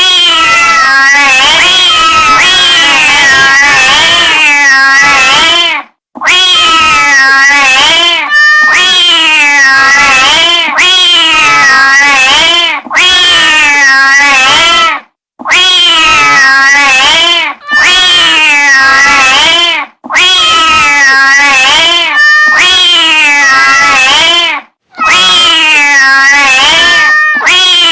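Persian cat yowling in long, loud, wavering calls that waver up and down in pitch, broken by short pauses about every two to five seconds.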